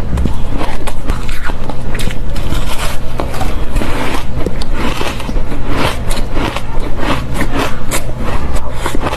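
Fluffy ice being bitten and crunched close to the microphone: a dense, continuous run of squeaky, crackling crunches.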